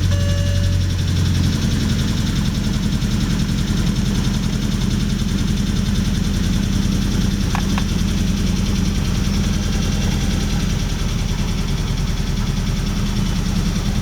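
BMW 320Si four-cylinder petrol engine idling steadily, cold, just after a cold start; the engine has a fault that needs attention. Two brief clicks sound about halfway through.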